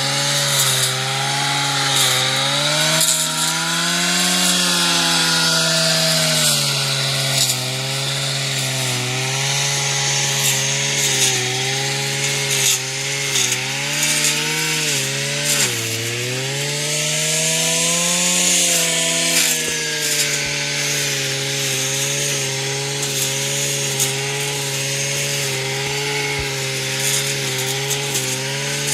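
Robin two-stroke brush cutter engine running at high speed, its pitch wavering up and down as the throttle and load change, with a sharp dip and recovery about sixteen seconds in.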